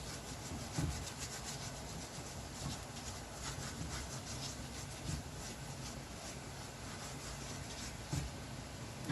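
Thin dough sheet cooking in a hot nonstick frying pan with a sprinkle of oil, sizzling and crackling steadily. A soft knock comes about a second in and another near the end.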